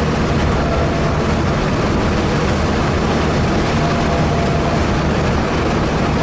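Car engine running hard at high revs in fifth gear, heard from inside the cabin with heavy wind and road noise. The engine is near the rev limiter, which the driver hits, forcing a lift.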